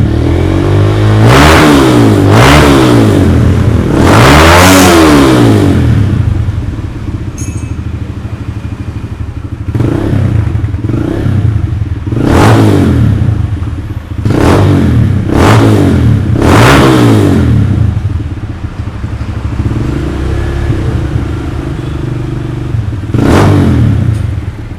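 Kawasaki KLX 150's single-cylinder four-stroke engine idling and being revved in about nine quick throttle blips, heard through its stock silencer with the inner layer removed and the standard header pipe refitted. Three blips come close together in the first five seconds, a cluster of four around the middle and a last one near the end.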